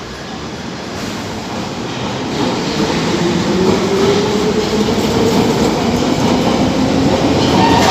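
London Underground train running at the platform, getting louder, with wheel and rail noise and an electric motor whine that rises in pitch about two and a half seconds in, then holds steady.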